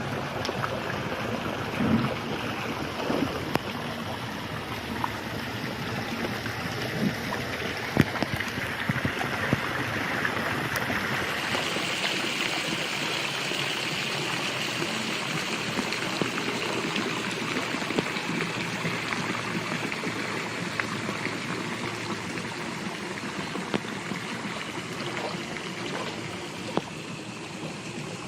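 Water running and splashing as a steady rush, with scattered small knocks; about eleven seconds in the low rumble fades and the hiss turns brighter.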